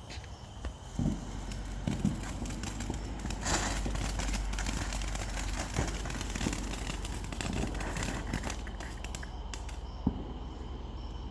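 June Bug firework burning after being lit: a hissing, crackling spray of small pops, strongest from about three and a half seconds in and easing off near the end.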